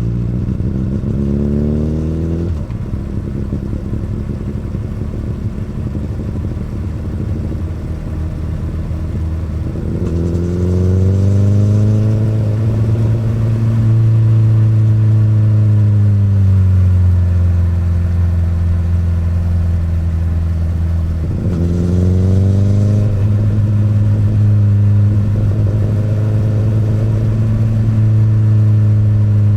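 Exhaust note of a 2008 Honda CBR1000RR's inline-four engine through an Akrapovic exhaust, under way on the road. The engine pitch climbs three times, at the start, about ten seconds in and about two-thirds of the way through, and holds steady in between.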